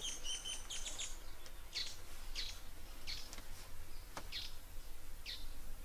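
Small birds chirping: short, high chirps about once a second over a faint steady hum, with a single soft click a little past four seconds in.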